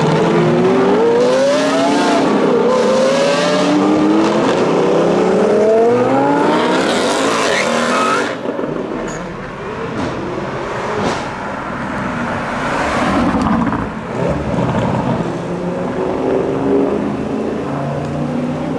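Supercar engine accelerating hard, its note climbing and dropping back several times as it shifts up through the gears. After about eight seconds it fades, and a lower, steadier engine note follows near the end.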